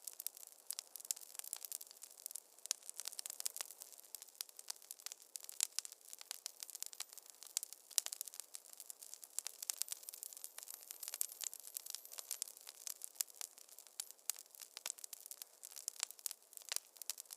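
Wood fire crackling in a fireplace: a steady stream of sharp, irregular pops and snaps with a light hiss, thin and without any low rumble.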